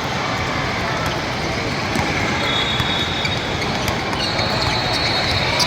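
Basketball game in a gym: a steady wash of crowd and player noise with scattered sharp knocks of the ball and shoes on the court, and high squeals from about halfway in.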